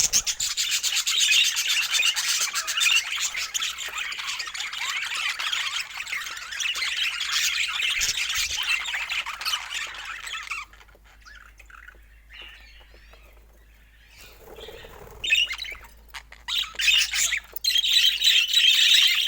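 A flock of budgerigars chattering and squawking. The chatter is dense for about ten seconds, thins to a few quiet calls, then picks up again near the end.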